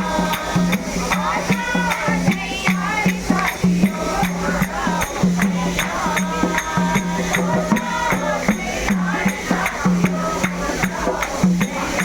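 Devotional group singing over a steady beat of jingling percussion.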